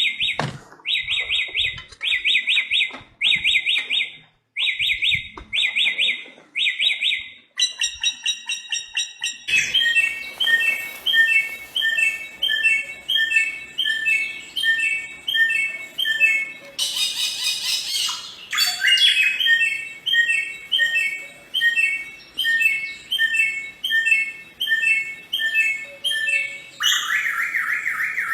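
Bare-throated whistler (samyong) singing: fast runs of loud, evenly repeated phrases, the phrase type changing abruptly several times.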